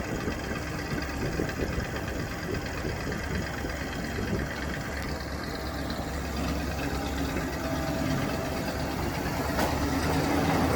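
1979 Chevrolet C70 truck's 427 V8 engine idling steadily, growing a little louder toward the end.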